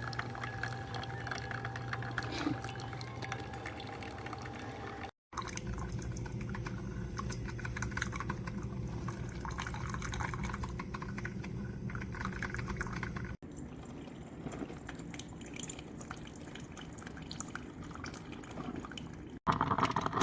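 Liquid dripping and trickling over a steady low hum, broken by a few brief cut-outs.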